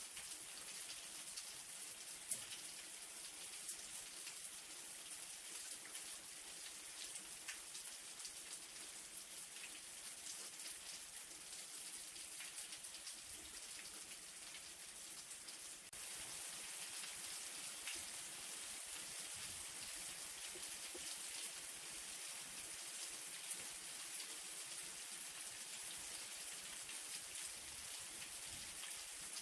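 Light rain falling: a steady hiss of rain with scattered individual drops ticking. It gets slightly louder about halfway through.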